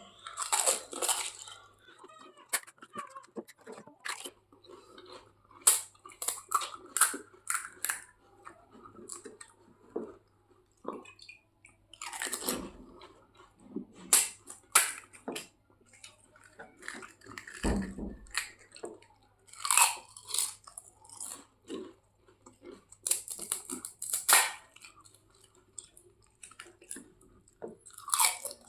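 Close-up crunching and chewing of golgappas (pani puri): crisp fried puri shells cracking between the teeth in quick, irregular bites.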